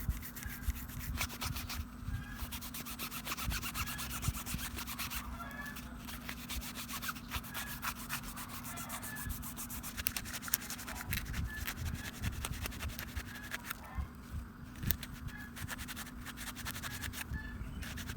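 Rapid, continuous hand scrubbing strokes on grinder parts during cleaning, a brush or abrasive rubbing quickly back and forth. It stops briefly a few times, over a faint steady hum.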